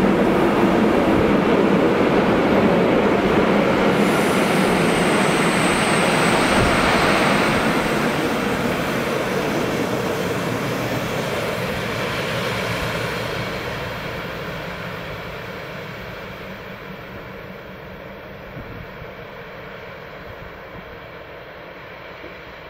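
Rhaetian Railway metre-gauge freight train with electric locomotive passing close and rolling away, its wheel and wagon noise fading steadily as it recedes. A faint high squeal sounds briefly about five seconds in.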